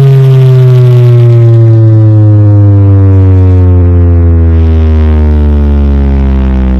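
A single loud bass tone played through a large subwoofer sound system, sliding slowly and steadily downward in pitch, with a buzzing stack of overtones above it.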